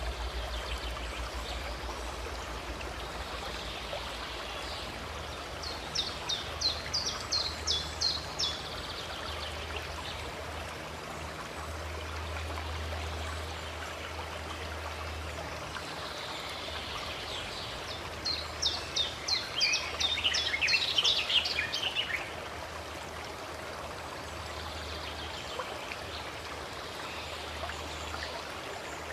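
Steady rushing of a stream or small waterfall, with a songbird singing twice over it: a fast series of repeated high notes, once at about six seconds and again, louder, at about eighteen seconds.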